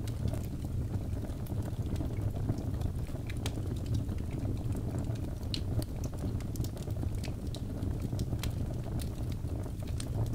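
Birch logs burning in a fireplace: a steady low rumble of the flames with frequent small sharp crackles and pops scattered throughout.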